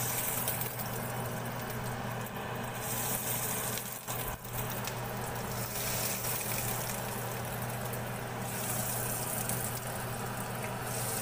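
Breadcrumbed beef nuggets sizzling in hot oil in a frying pan, the sizzle surging several times as more nuggets are dropped in, over a steady low hum.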